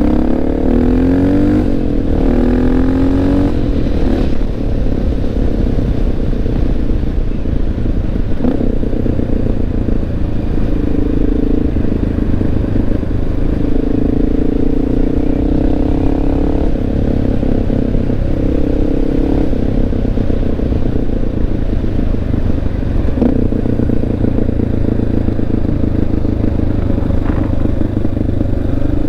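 Honda XR650L's air-cooled single-cylinder four-stroke engine running under way. It rises in pitch as the bike accelerates in the first few seconds, then holds a fairly steady cruise with small changes in speed.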